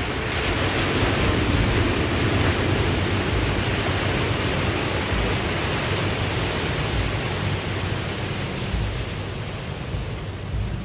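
Waterfall: water rushing in a steady, loud roar with a deep rumble underneath, swelling a little in the first second or so and then holding even.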